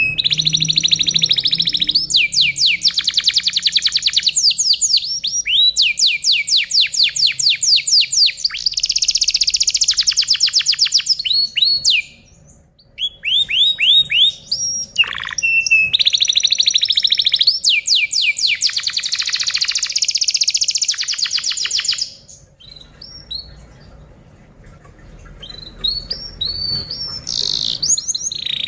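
Domestic canary singing: long phrases of fast rolling trills and chirps, breaking off briefly about twelve seconds in and dropping away for a few seconds after about twenty-two seconds.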